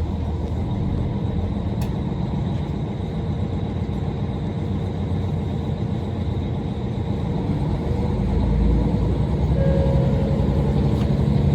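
Donan Isaribi Railway KiHa 40 diesel railcar running on the line: a steady low rumble of engine and wheels that swells a little about eight seconds in.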